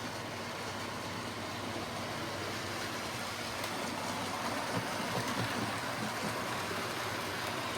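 Model railway train, an A4 locomotive hauling coaches, running along the track: a steady whirr of the motor and rattle of wheels on rail that grows a little louder in the middle as it comes past, running slightly fast.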